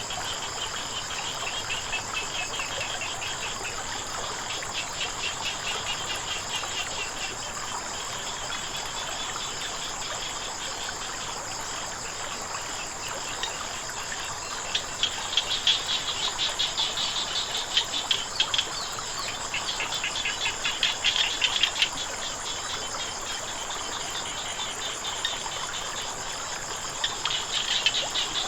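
A chorus of frogs calling in bouts of rapid pulses, louder about halfway through and again near the end, over a steady high insect buzz and the even rush of flowing water.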